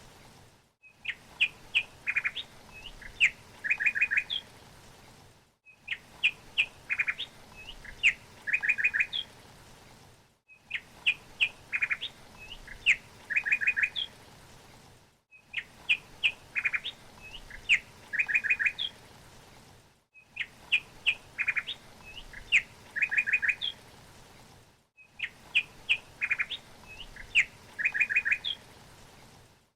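A songbird chirping: clusters of quick, high chirps and short trills. The same few-second recording repeats about six times, with a brief gap of silence between loops.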